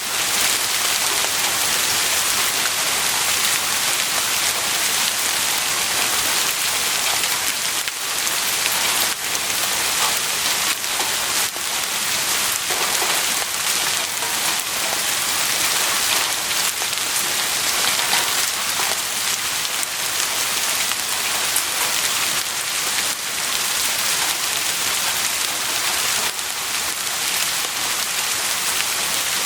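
Heavy rain falling steadily, a dense even hiss with scattered individual drop impacts.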